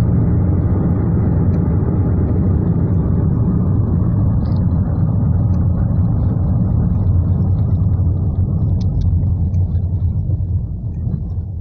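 Steady low rumble of a car driving, heard from inside the closed cabin: engine and tyre noise, easing slightly near the end.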